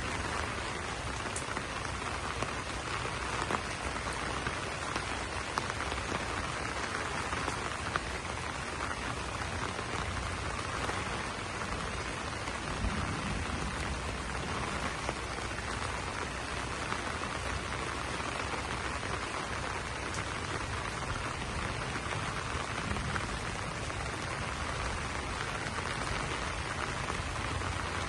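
Steady rain falling on banana leaves: an even hiss with many small drop taps scattered through it.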